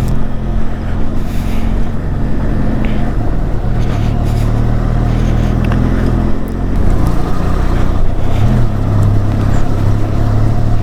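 Benelli TRK 502X's parallel-twin motorcycle engine running under way, a steady low note whose pitch shifts a little around four to six seconds in.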